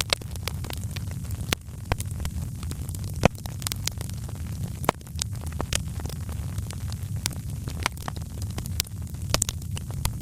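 Wood fire in a fireplace crackling, with irregular sharp pops and snaps over a steady low rumble of the flames; one pop stands out a little after three seconds in.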